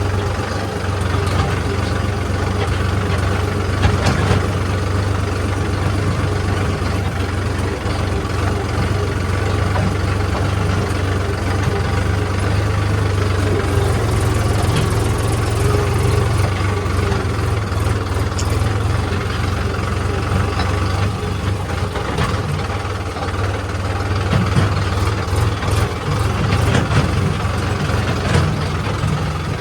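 A heavy diesel engine of the loading machinery runs steadily with a deep, even hum. Short knocks and clinks come through now and then, more often in the second half.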